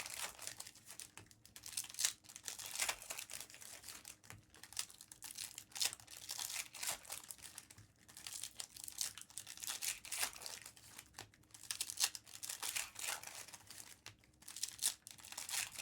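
Trading card packs being torn open and their foil wrappers crinkled, in irregular rustles and crackles.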